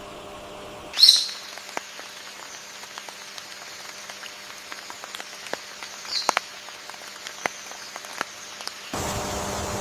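A bird gives two short, high, sweeping calls, one about a second in and one about six seconds in, over scattered light ticks like dripping water. Near the end the background changes to a louder, steady hiss.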